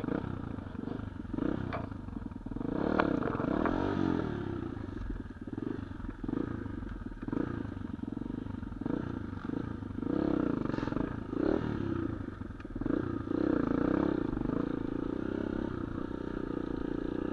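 Small off-road motorcycle engine running, its revs rising and falling again and again, with a few scattered knocks and clatter.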